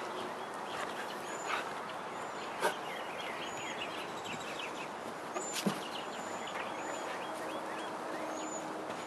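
Small birds chirping: short high arched chirps repeated every second or so, and runs of quick twittering, over a steady outdoor hiss with a few faint knocks.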